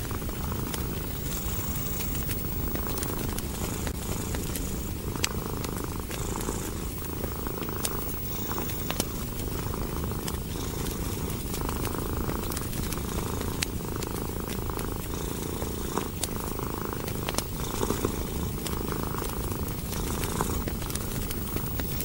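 A cat purring steadily and continuously, over the crackle of a wood fire with frequent sharp pops.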